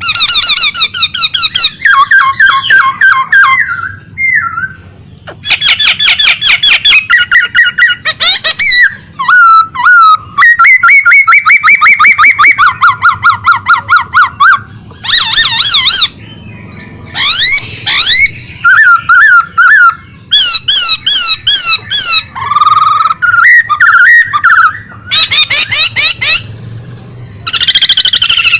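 Songbird singing hard, a long varied song of fast repeated chirps and trills in phrases of a second or two, with brief pauses between them.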